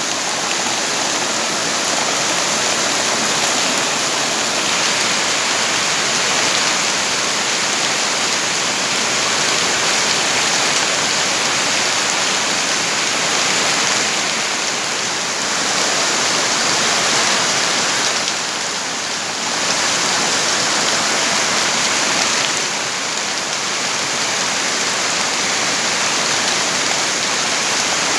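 Steady heavy rain falling, a dense even hiss with slight swells and dips in intensity.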